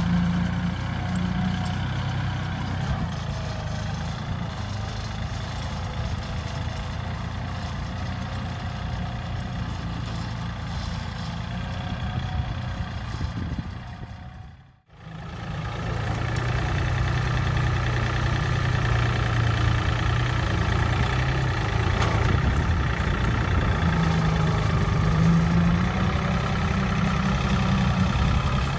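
40 hp Yanmar tractor's diesel engine running steadily. It fades out suddenly about halfway through and comes back within a second.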